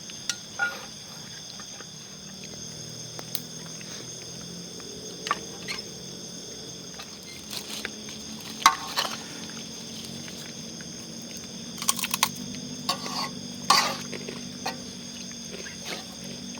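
Steady chorus of night crickets, several high-pitched tones held without a break, with scattered sharp clicks and knocks, a few clustered around the middle and near the end.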